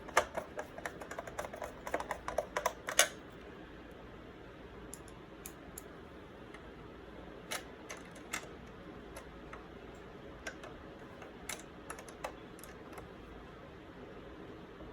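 Small plastic clicks and taps as screws are driven with a Phillips screwdriver into a refrigerator ice storage caddy: a quick run of clicks for about three seconds, then only a few scattered clicks.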